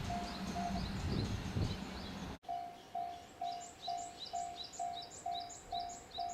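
Electronic level-crossing warning bell ringing at about two strokes a second. A freight train's rumble underlies it at first, then the sound cuts off abruptly about two seconds in and the bell rings on alone.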